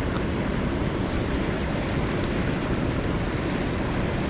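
Mountain stream rushing steadily, a constant wash of water noise, with a few faint clicks.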